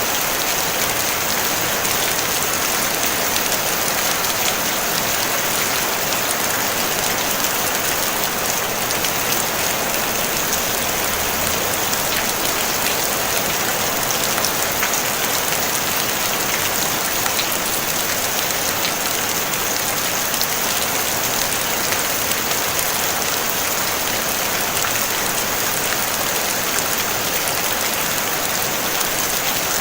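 Steady rain falling on a tin roof, a dense even hiss full of fine drop ticks, with no thunder.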